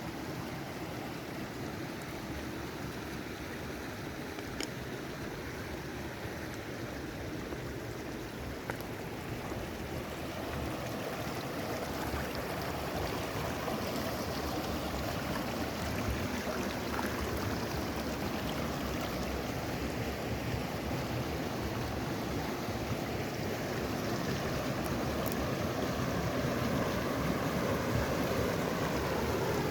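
River water rushing steadily, growing gradually louder, with a few faint ticks.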